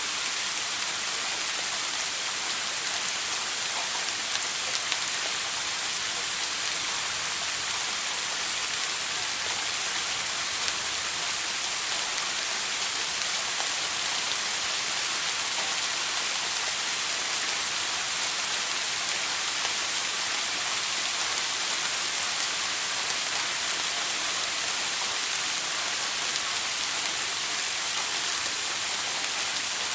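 Running shower water spraying and splashing in a steady hiss.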